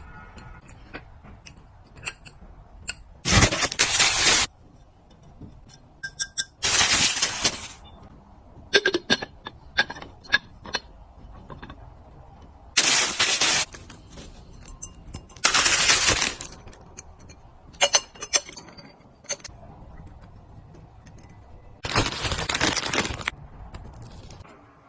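Small objects clicking and clinking as they are handled and set down, with five hissing bursts of about a second each.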